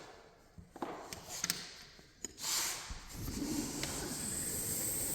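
A few light clicks and taps, then about two and a half seconds in a short rush of noise as a door is opened to the outside, followed by a steady airy hiss of outdoor air.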